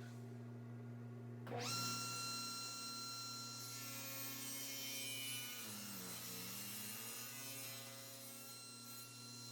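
Table saw running, its steady whine starting suddenly about a second and a half in, with a brief dip in pitch near the middle as the blade cuts a taper along a table leg held in a tapering jig.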